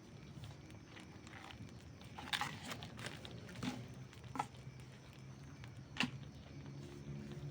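Wood campfire crackling: a handful of sharp, scattered pops and snaps over a faint steady low background, the loudest pop about six seconds in.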